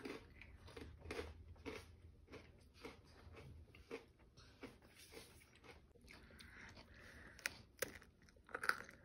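Faint crunching and chewing of gluten-free chocolate-covered pretzels: a run of irregular crisp crunches, with a few sharper cracks near the end.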